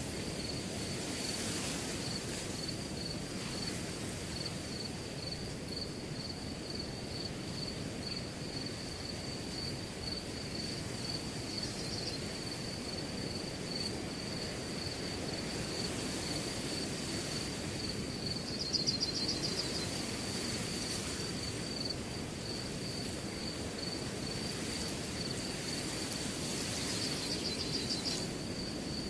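Wind blowing through grass, with crickets chirping in a steady fast pulse and a few brief louder trills about twelve, nineteen and twenty-seven seconds in.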